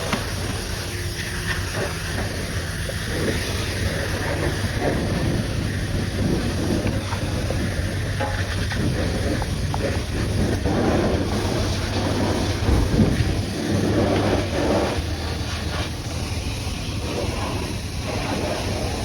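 High-pressure water jet spraying against a muddy truck, with a steady low hum underneath that rises and falls irregularly as the spray moves.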